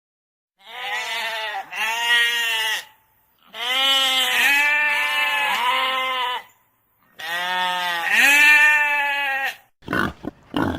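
An animal bleating: three long, wavering calls with short gaps between them, then a few brief sounds near the end.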